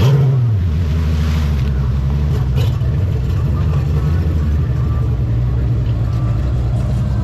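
Performance boat engine running at low speed with a low, steady note; right at the start its pitch drops quickly as the throttle comes back, then it holds at idle-like speed.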